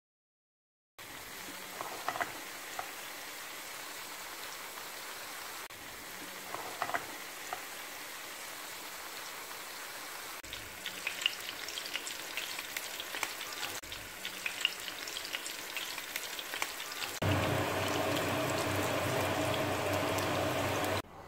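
Sliced carrots and eggplant frying in hot oil in a pan: a steady sizzle with scattered crackles and pops. It starts about a second in, and about 17 s in it turns louder and denser as the eggplant slices fry.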